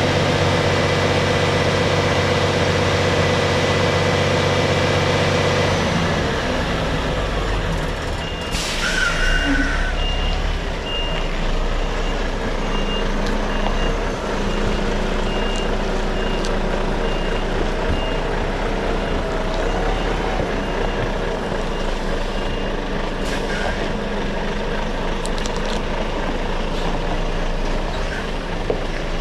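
Articulated lorry's diesel engine running, its note changing about six seconds in. A short air hiss comes about eight seconds in, then the reversing alarm beeps evenly for about fourteen seconds while the lorry backs up, and stops a while before the end.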